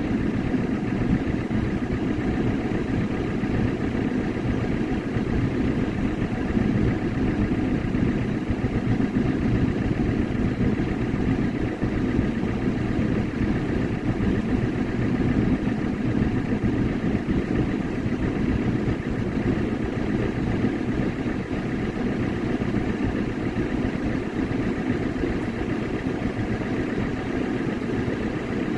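Tractor's diesel engine running steadily at low revs, close by and unchanging throughout.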